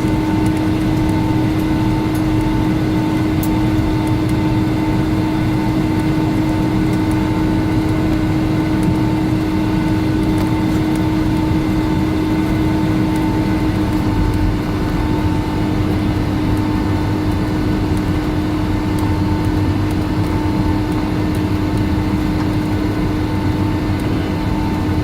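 Cabin noise inside a Boeing 757-200 on the ground before takeoff: the jet engines running at idle with the cabin air, a steady rumbling hum with a held tone on top.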